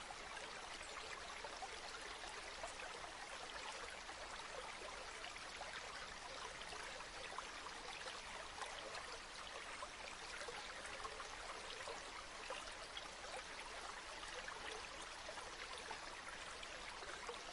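Flowing river water: a steady, even rush with fine trickling and splashing flecks through it.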